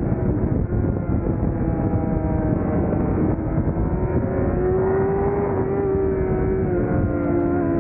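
600cc racing motorcycle engine running hard at high revs under race load, its pitch rising and falling with throttle and gear changes, over a steady rush of wind.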